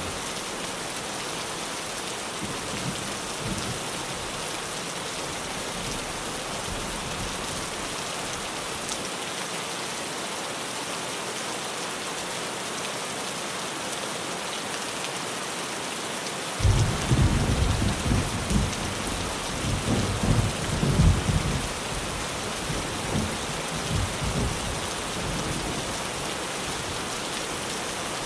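Steady rain falling on a tin roof, with a low thunder rumble that breaks in suddenly a little past halfway and fades over several seconds.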